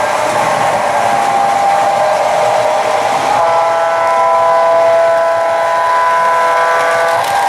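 Digital sound of a Märklin H0 model diesel locomotive: a multi-tone air horn held over the engine and running noise, the horn chord changing about three and a half seconds in and again near the end.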